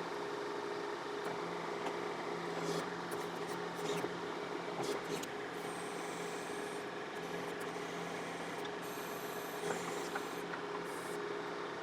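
John Deere 4052R compact tractor's diesel engine running steadily while it powers the 485A backhoe, with a few short clicks and knocks as the bucket works.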